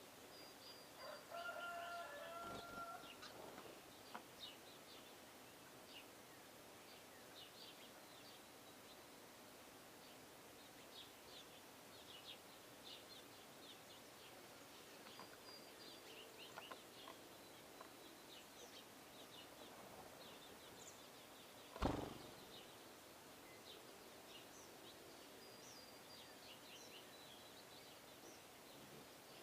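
Faint, repeated short chirps of small birds at feeders, with a louder pitched call or squeak about two seconds in. A single sharp knock about two-thirds of the way through is the loudest sound.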